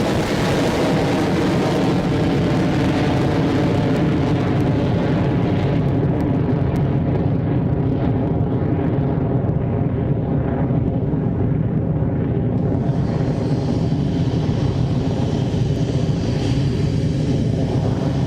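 Steady, loud engine noise of a Rocket Lab Electron rocket's nine first-stage Rutherford engines at liftoff and early ascent. The higher hiss fades about six seconds in and comes back suddenly at about twelve and a half seconds.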